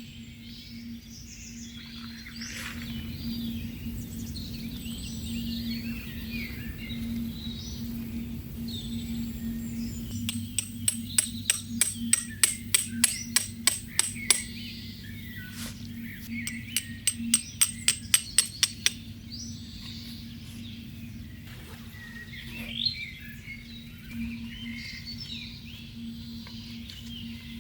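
Two runs of sharp, ringing hammer strikes, about three a second, a few seconds each, over birds chirping and a steady low hum.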